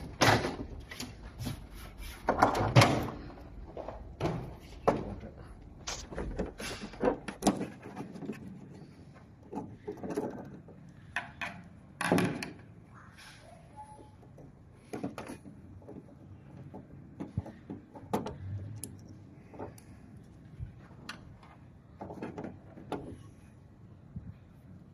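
Irregular knocks, clicks and short scrapes of hard objects being handled, busiest in the first third, over a low hum that stops about a third of the way in.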